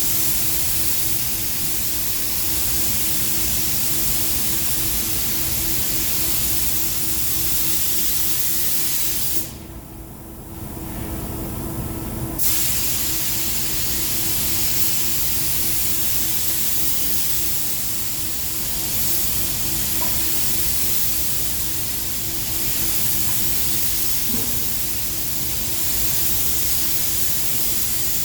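Paint spray gun hissing steadily as silver-mirror coating is sprayed. The spray stops about nine seconds in and starts again about three seconds later, over a steady low hum.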